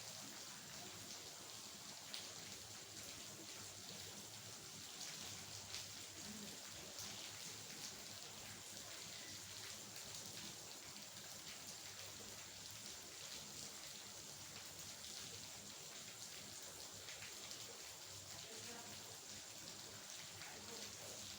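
Steady rain falling, with many fine drop ticks over a soft, even hiss.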